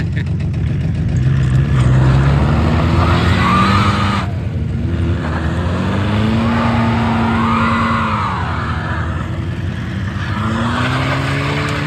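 Car engines revving under load as two cars pull against each other in a tug of war, the pitch swelling up and falling back in long sweeps.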